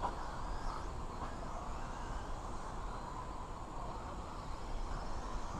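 Electric 1/10-scale 2wd buggies and stadium trucks with 17.5-turn brushless motors racing on a dirt track, heard as a faint motor and gear whine that rises and falls in pitch as the cars accelerate and brake, over outdoor background noise.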